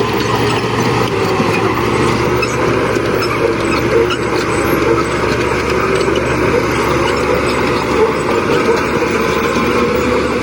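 Heavy construction machinery's diesel engine running steadily at a constant pitch.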